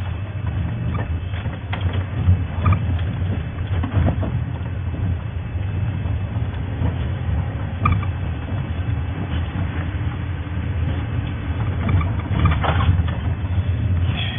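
Safari game-drive vehicle's engine running at low speed, a steady low rumble with occasional knocks and rattles.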